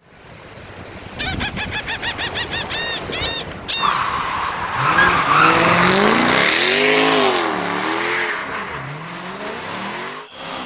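A quick run of high chirps, about five a second, followed by an engine revving up and down several times.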